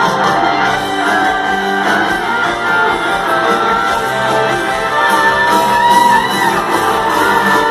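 Loud rock music: an electric guitar plays a lead line with bent, sliding notes over a full band.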